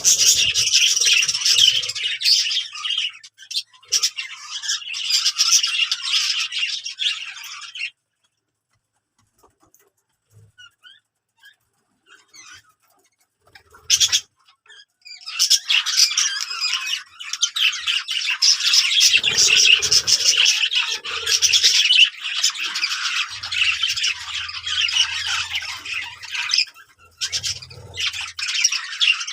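Budgerigars chattering and warbling in a dense, busy stream of high notes. It breaks off suddenly about eight seconds in, leaving a quiet gap of about seven seconds with a single sharp click. Then the chattering starts again and carries on.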